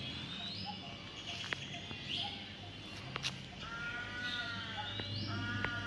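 Birds calling: a short rising whistle repeated about every second and a half, and twice a longer call with several stacked bands, over a low steady hum.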